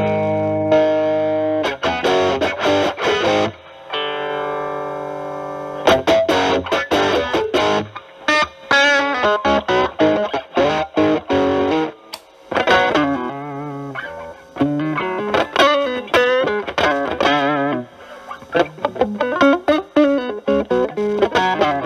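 Electric guitar, a single-coil Fender Stratocaster, played through a Pro Co RAT2 distortion boosted by an Ibanez TS9 Tube Screamer into a Marshall Valvestate amp. It opens with chords left to ring out and sustain, then moves to single-note lead lines with string bends and vibrato.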